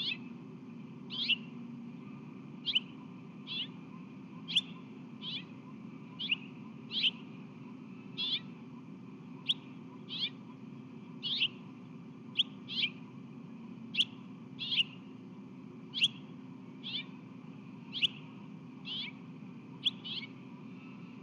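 A small reddish songbird chirping over and over, one short sharp call about every second, over a steady low background hum.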